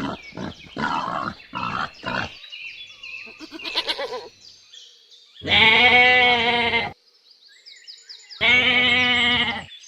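A goat bleats twice, two long wavering calls about three seconds apart, after a few short pig grunts at the start. Faint bird chirps sound in the background between the calls.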